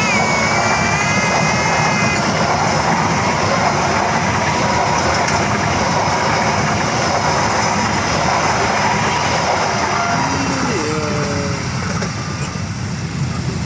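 Train running past at close range: a loud, steady rumble of wheels on the rails, with the locomotive's horn dropping in pitch and cutting off about two seconds in. The rumble eases slightly near the end.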